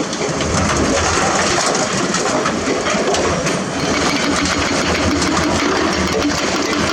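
Heavy diesel earthmoving machinery, an excavator or dump truck, running steadily at a work site.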